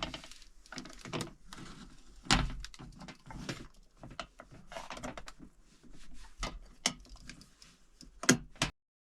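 Irregular clicks, knocks and rustling of things being handled, with a few louder knocks about two and a half seconds in and near the end; the sound cuts off suddenly shortly before the end.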